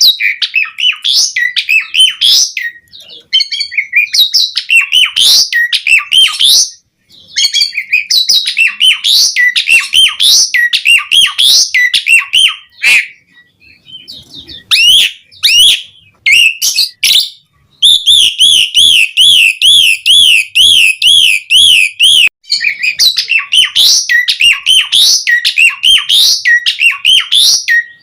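Asian pied starling (jalak suren) singing vigorously: quick runs of loud, varied whistles and chattering notes broken by short pauses. About two-thirds of the way in comes a few seconds of fast wavering trill that rises and falls about four times a second, before the chattering phrases return.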